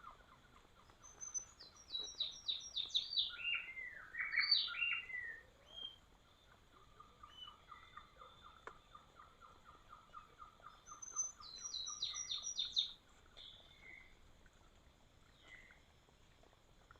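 Wild birds calling in forest. Twice there is a quick series of high notes stepping downward in pitch, and in between runs a long, even, rapidly pulsed call at a lower pitch.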